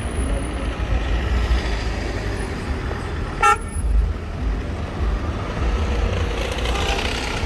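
Street traffic running steadily, with one short car horn toot about halfway through.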